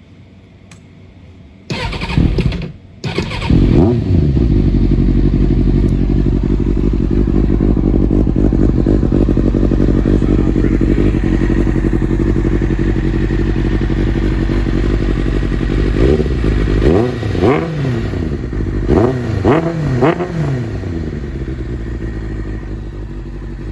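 Kawasaki ZZR600 inline-four sport bike engine on a cold first start of the day. The starter cranks briefly and the engine catches about three seconds in with a short rev, then runs at a steady fast idle. Near the end it takes several quick throttle blips before settling back to idle.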